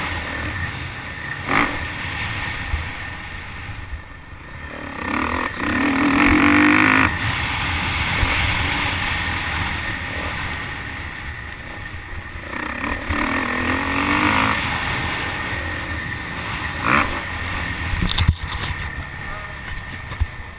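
Motocross bike engine, heard from a helmet camera, revving up twice with a rising pitch between stretches of steadier running. A few sharp knocks cut in.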